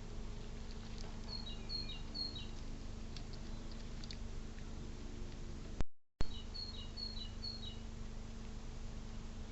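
A songbird singing a short phrase of three or four quick two-part notes, each stepping down in pitch, heard twice over a steady low hum and hiss. The sound cuts out completely for a moment just before the second phrase.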